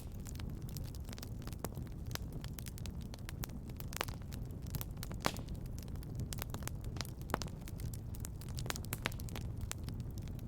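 Wood fire crackling in a fireplace: irregular sharp pops and snaps over a low, steady rumble of burning, with a couple of louder pops about four and five seconds in.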